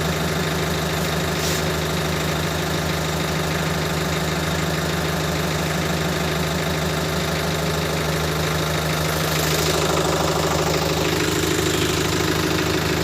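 Tractor's diesel engine idling steadily with an even running note.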